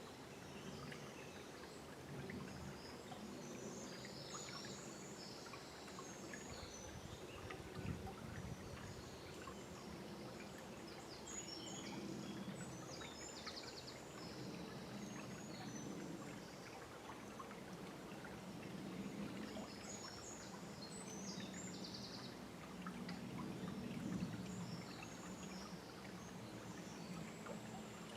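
A river flowing gently, with low gurgling swells that come and go, and songbirds chirping in short, scattered calls throughout.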